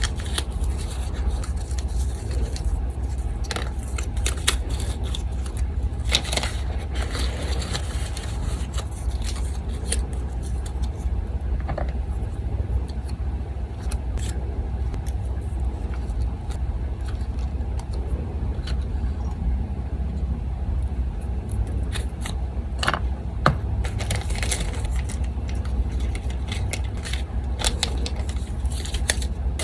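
Paper handled and scraped, with scattered sharp clicks and rustles in several clusters, over the steady low hum of an electric fan.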